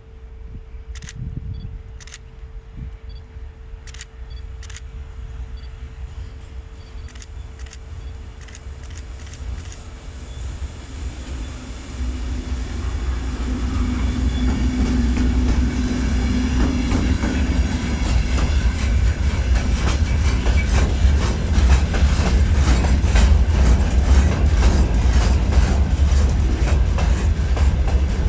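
A train approaching the station and growing louder, then running past with a heavy rumble and rapid clickety-clack of its wheels over the rail joints.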